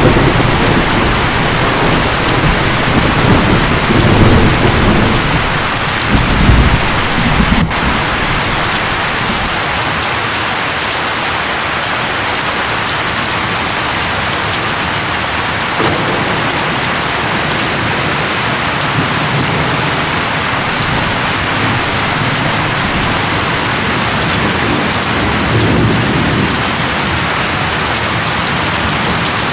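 Steady, heavy rain falling, with low rolling rumbles of thunder through the first several seconds and fainter rumbles again later on.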